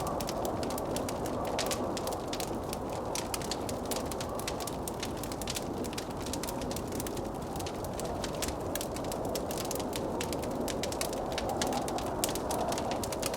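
Wood fire crackling in a fireplace, a steady stream of irregular small snaps and pops, over the steady rushing noise of blizzard wind.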